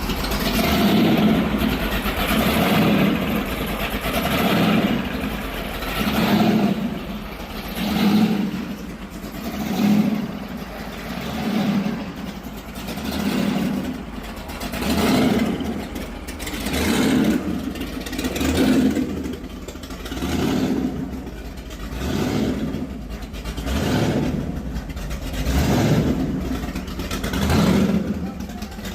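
Car engine revved again and again in regular throttle blips, each rising and falling, about one every two seconds.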